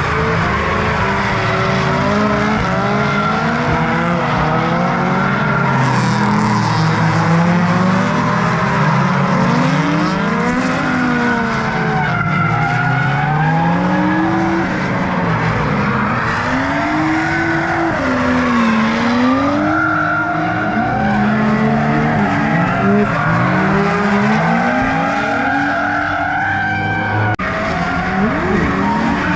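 A train of drift cars sliding in close tandem: several engines revving up and down against each other over tyre squeal and skidding, with an abrupt change near the end.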